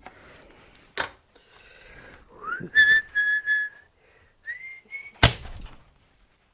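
A man whistling a short run of notes, some sliding upward. There is a sharp knock about a second in and a louder knock near the end.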